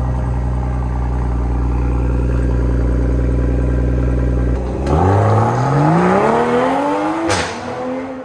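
Exhaust of a stock Toyota Supra running steadily with a deep, even note. About five seconds in, the engine note climbs steadily for some three seconds as the car accelerates, then fades.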